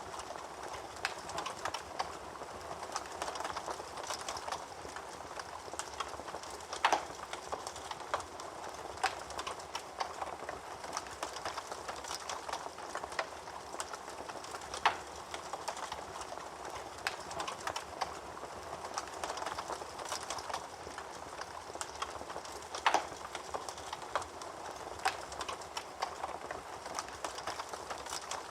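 Wood fire burning in a fireplace: a steady soft hiss with frequent irregular crackles and pops, a handful of them sharper and louder.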